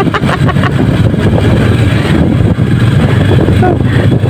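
Sport motorcycle engine running steadily at low road speed as the bike rides over a bumpy, potholed dirt road.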